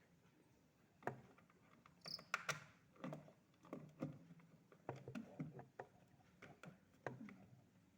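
Faint, irregular clicks and knocks, starting about a second in.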